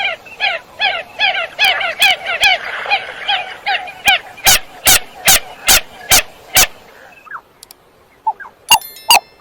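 Common coot calling: a rapid series of short, sharp calls, about four a second, then several louder calls spaced about half a second apart. A brief pause follows, and the calls start again near the end.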